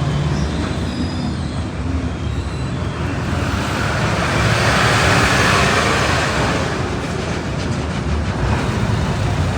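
A heavy vehicle's engine rumbling steadily, with road traffic noise swelling and fading about halfway through as a vehicle passes.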